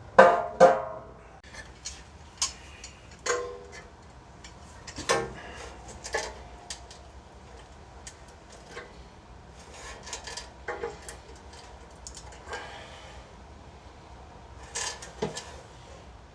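Irregular metal clanks and knocks from hand tools on a wood chipper mulcher's metal parts. The loudest is a pair of ringing strikes right at the start, with single knocks about every one to two seconds after.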